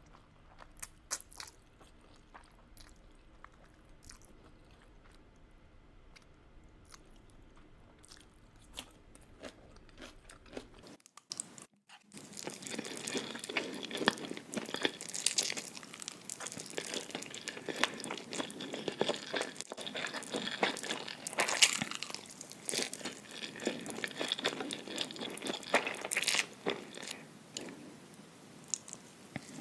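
Close-miked eating: crunchy bites and wet chewing, dense and continuous after a sudden start about twelve seconds in. Before that, near silence with a few faint mouth clicks.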